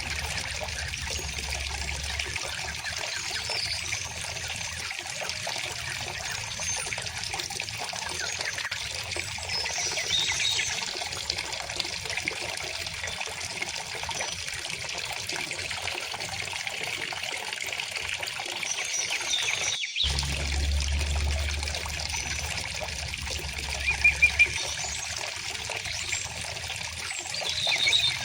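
Stream water trickling and burbling steadily, with faint scattered bird calls above it. The sound cuts out for an instant about two-thirds of the way through.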